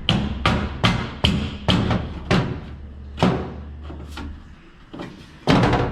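Hammer blows on sheet steel, a quick uneven series of ringing strikes about two to three a second, with a pause in the middle and a fast flurry near the end. A low steady hum underneath stops partway through.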